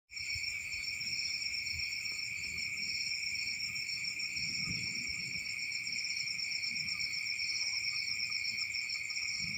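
Insects trilling steadily in chorus, several high-pitched tones layered, the highest with a fast pulsing trill.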